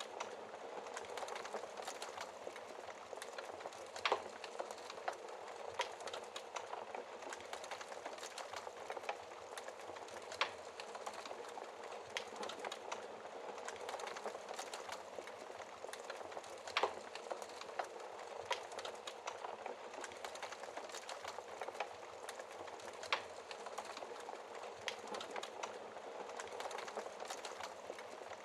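Wood fire crackling in a fireplace, with a louder sharp pop roughly every six seconds, over a steady hiss of rain.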